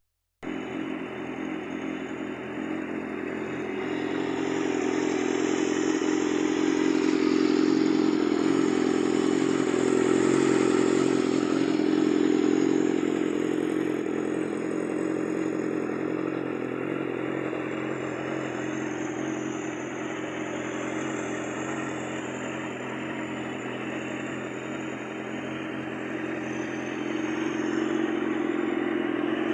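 Yamaha R6's inline-four engine running through a Termignoni exhaust, a steady engine note that swells louder for several seconds in the middle and then eases back.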